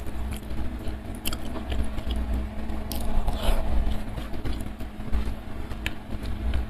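Close-miked chewing of food with wet mouth clicks and smacks, and fingers picking at sauce-covered chicken liver and gizzard. A low steady rumble and hum run underneath.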